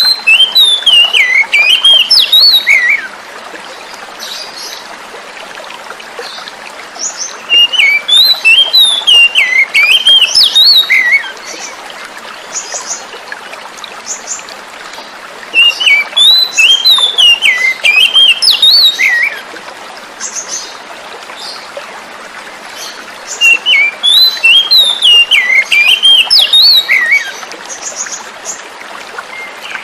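Oriental magpie-robin singing: phrases of fast, varied whistles and chirps, each about three seconds long and coming back about every eight seconds, over the steady hiss of flowing water.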